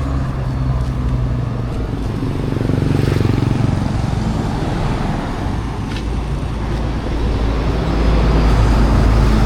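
Road traffic: motor vehicle engines running and passing close by, with a low engine hum throughout that grows louder near the end.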